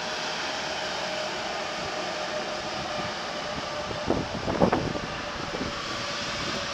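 Electric locomotive and passenger coaches passing: a steady rumble of wheels on rail with a faint steady hum, and a quick cluster of clanks about four seconds in.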